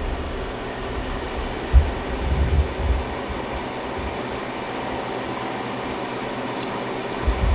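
Cooling fans of a 3000 W 12 V low-frequency inverter running under near-full load (about 2900 W), mixed with the fans of two heaters: a steady whir with a faint steady hum. A few low thumps come about two seconds in.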